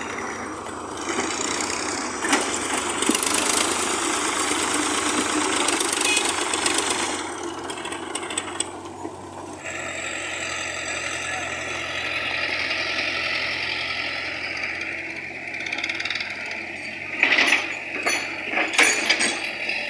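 Heavy machinery engine running steadily, its sound changing character about halfway through, with a few sharp knocks near the end.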